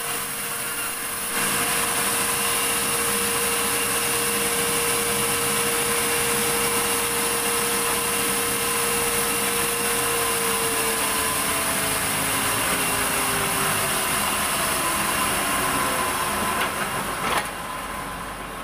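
Sawmill saw running through a log of medang wood: a loud, steady mechanical whirr with a hum whose pitch sinks after about ten seconds. The sound drops off sharply near the end.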